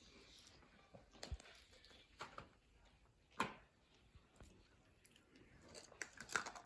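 Near silence: faint room tone with a few soft, faint clicks and knocks scattered through it.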